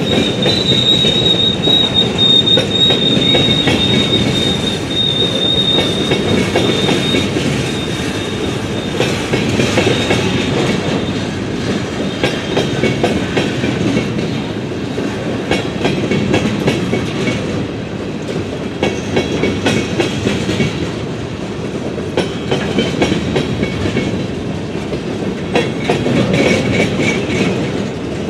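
Freight train rolling past: a steady rumble of steel wheels on rail with many small clicks. A high, steady wheel squeal runs for the first several seconds, then fainter squeals come and go.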